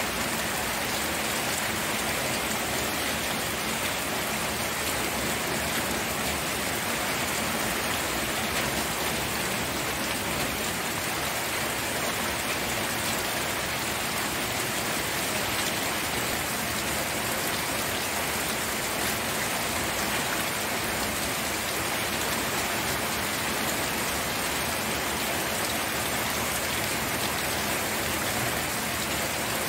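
Steady rainfall pattering on surfaces, an even hiss of many drops with no breaks or changes.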